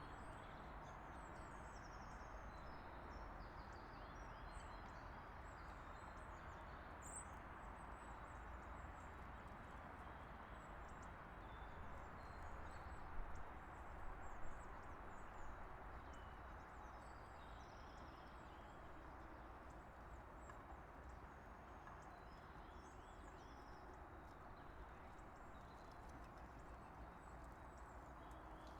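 Small birds chirping and twittering faintly throughout over steady background noise, with a few sharper knocks about halfway through.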